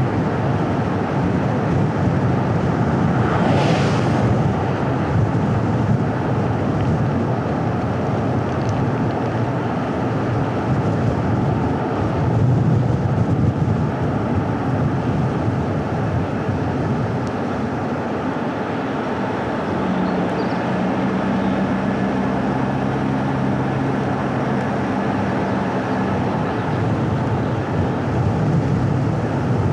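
Car driving on a paved road: steady tyre and road noise mixed with engine and wind. A short hiss comes about four seconds in, and a steady low engine drone holds from about twenty to twenty-six seconds in.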